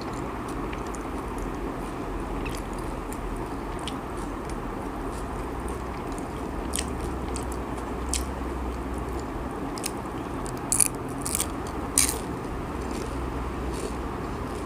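Close chewing of a fried banana spring roll (popia pisang): soft mouth sounds with scattered crisp crunches and clicks, a few louder crunches in the last third, over a steady background hiss.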